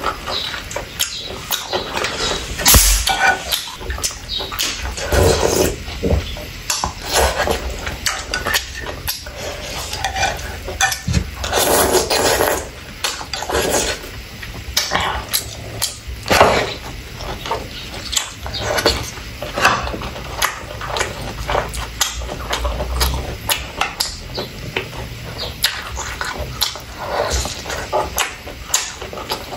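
Close-miked eating sounds: wet chewing and mouth smacking with irregular slurps, and chopsticks clicking against the dishes now and then.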